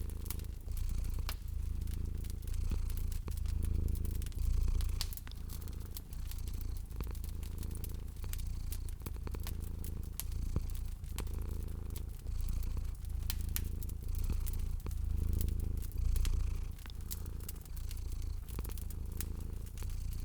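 A domestic cat purring steadily, the low purr rising and falling every second or two, over a wood fire crackling with many sharp pops.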